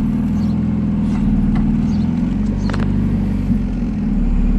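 Turbocharged Acura Integra GS-R four-cylinder engine running at idle, warm and just restarted with the key. The idle wavers a little in the middle.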